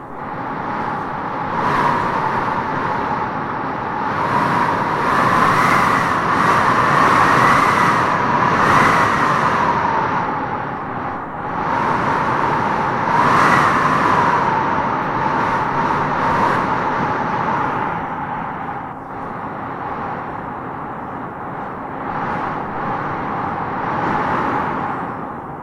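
Howling wind gusting through trees: a steady rush with a whistling howl that rises and falls in pitch, swelling in stronger gusts a few seconds in and again around the middle.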